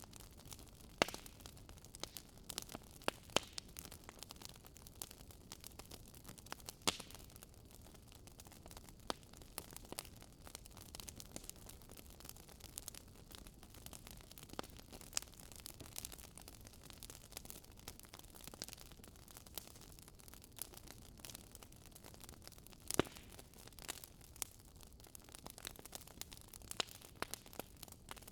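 Campfire crackling: a continuous scatter of small, irregular pops and snaps over a soft hiss, with a handful of louder snaps now and then.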